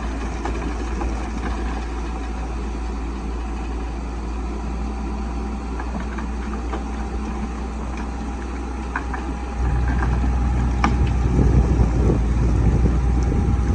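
Bulldozer's diesel engine running steadily, then growing louder about ten seconds in, with a few faint clicks.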